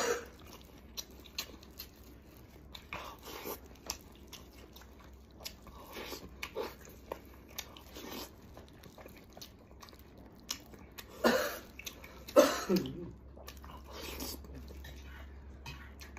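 Close-up wet chewing and lip-smacking of a man eating soft stewed lamb leg with his mouth full. There are many small clicks throughout, and two louder mouth noises about eleven and twelve and a half seconds in.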